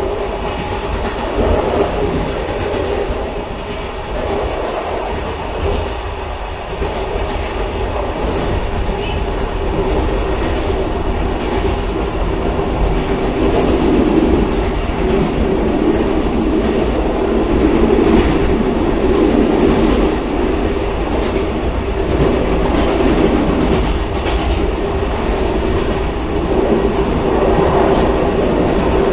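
Railcar running along the track: a continuous rumble with a steady hum, and occasional clicks of the wheels over the rails, growing slightly louder over the stretch.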